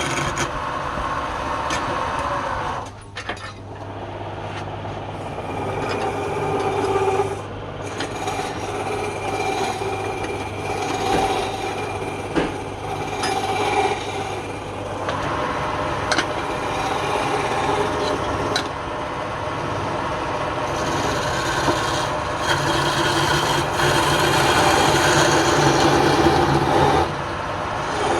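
Wood lathe running with a turning tool cutting the spinning wood: a continuous rough scraping over the motor's hum, easing off briefly about three seconds in.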